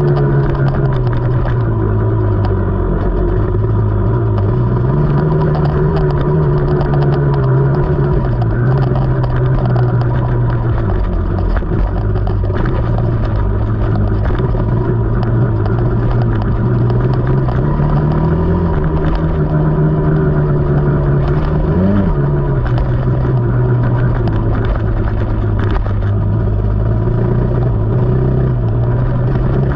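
KTM 300 two-stroke dirt bike engine running under way on a trail ride, its note rising and falling gently with the throttle, with one short rev blip about three-quarters of the way through.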